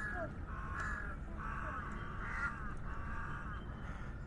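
Crows cawing over and over, a run of harsh calls coming about every two-thirds of a second, over a steady low rumble.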